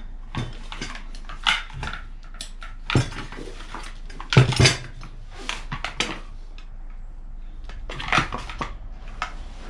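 Screwdriver and small screws clicking and knocking against the metal fan cover of a Kranzle pressure washer's electric motor as the cover screws are taken out: a scatter of sharp clinks, the loudest a pair of knocks about halfway through.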